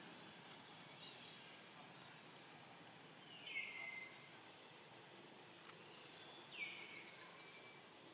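Quiet outdoor ambience with faint hiss. A bird gives two whistled calls about three seconds apart, each sliding down in pitch and then holding a steady note, with faint high chirps around them.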